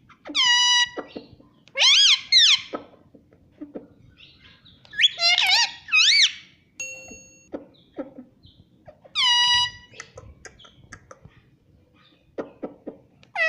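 A pet parrot giving several short, high-pitched, whistle-like calls, some held on one pitch and some arching up and down, as it mimics talking, with faint clicks between the calls.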